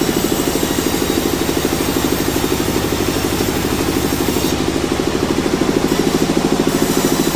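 Sawmill machinery running steadily: an engine-driven machine with a rapid, even throb that does not change.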